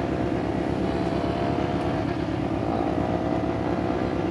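Motorcycle engine running at low speed in traffic, its note dipping briefly about two seconds in and then rising again.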